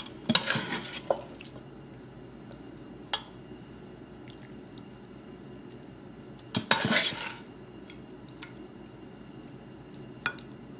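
A metal spoon scraping and clinking against a pot while spooning cooked chicken curry out onto a layer of rice: two short bursts of scraping, just after the start and again about two-thirds of the way through, with a few light clicks between.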